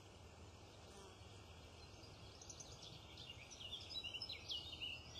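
Faint outdoor background with small birds chirping; the short, quick calls grow busier from about halfway in.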